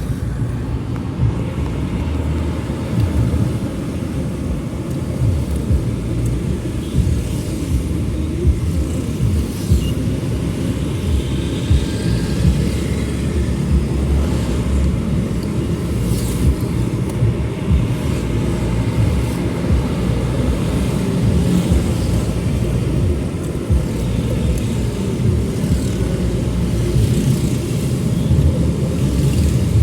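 Steady low vehicle rumble, unbroken and fluctuating slightly in level.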